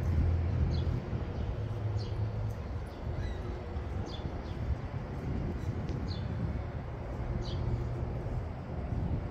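Small birds chirping in short, high, falling calls, about one or two a second, over a steady low rumble of city traffic.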